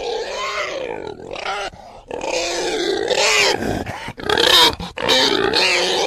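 Pigs grunting and squealing in a string of calls, with a short break about two seconds in and the loudest calls about four to five seconds in.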